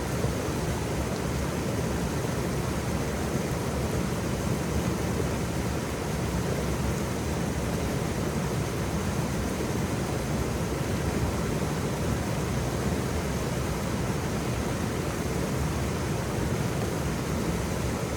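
Waterfall: a steady, even rush of falling water, heaviest in the low range, with no breaks.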